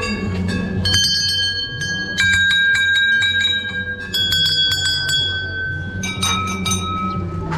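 Metal bells being struck again and again, several clanging strikes a second with long, overlapping ringing tones at a few different pitches, typical of bells rung by visitors at a temple.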